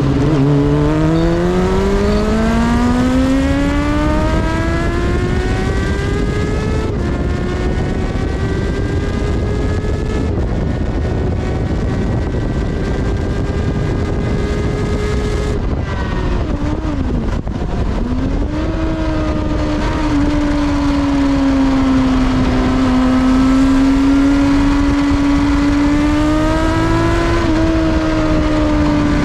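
Kawasaki ZXR400 inline-four engine recorded from on board at high revs on track. It pulls up through the rev range with a couple of quick upshifts, drops its revs sharply about two-thirds of the way in as the rider brakes and shifts down, then picks up again and holds high revs to the end.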